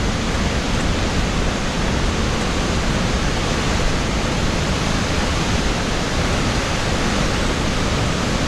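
A large, strong waterfall, its falling water making a steady rushing noise.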